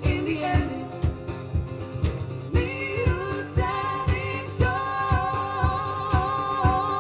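Live band music: a held, wavering melody with wordless singing over a steady beat of drum hits about twice a second.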